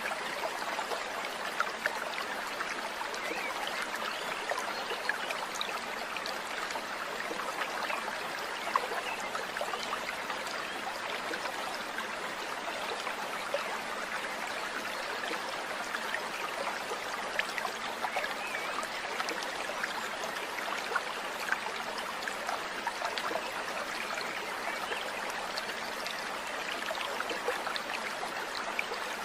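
Steady rushing and trickling of running water, like a small stream, with many short sharp ticks scattered through it and a few louder ones.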